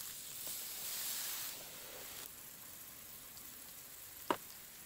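Ground meat and vegetables frying in hot oil in a pot, a steady sizzle that drops somewhat about two seconds in. A single sharp click near the end.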